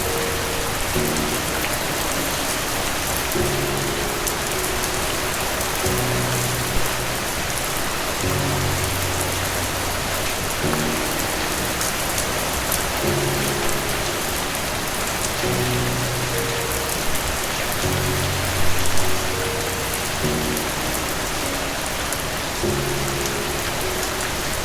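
Steady rain falling, an even hiss with scattered drop ticks, under soft slow music of low held chords that change every couple of seconds.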